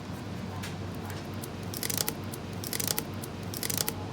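Handling noise: short crisp crinkling clicks in three small clusters about a second apart, over a steady low hum.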